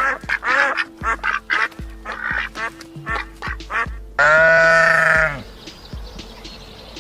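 A quick run of short animal calls, then one longer, louder call about four seconds in, over background music.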